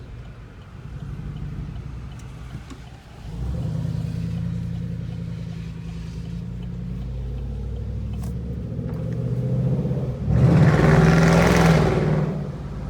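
Chevrolet Silverado 5.3 V8 on true dual exhausts with no mufflers or resonators, pulling under light throttle with a deep, choppy note. The note steps up about three seconds in, is at its loudest for a couple of seconds near the end, and then eases off. Pretty loud, though the throttle is barely touched.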